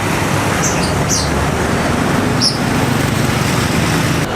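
Roadside traffic: a steady engine rumble from passing vehicles, with three short high chirps in the first half.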